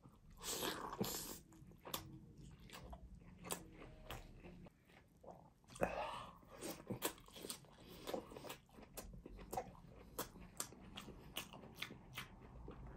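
Close-miked mouth sounds of a person biting and chewing grilled kebab: a run of many short clicks and smacks, louder about half a second in and again about six seconds in.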